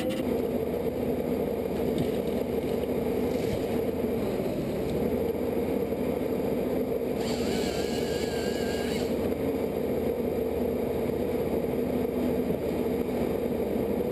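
A machine's engine running steadily with a constant hum. A brief higher whine joins it for about two seconds midway.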